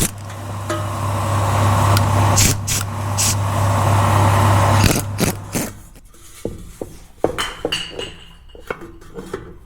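A workshop machine runs steadily with a low hum and hiss for about five seconds, then stops. Several sharp metallic clicks and clinks of tools follow.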